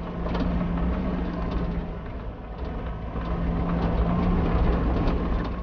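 Heavy aid lorry's engine labouring uphill under load, a steady low drone with many sharp knocks and rattles from the body on a rough track.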